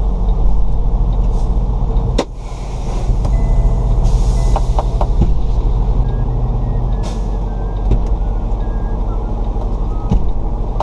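Semi truck's diesel engine running steadily, heard from inside the cab while maneuvering a trailer. About two seconds in there is a sharp click, then a hiss of air for a couple of seconds.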